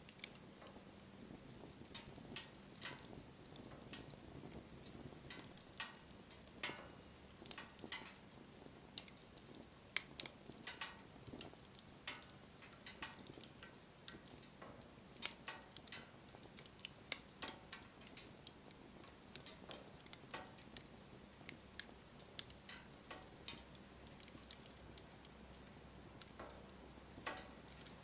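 Wood campfire crackling: irregular sharp pops and snaps, several a second at times, over a faint hiss of burning.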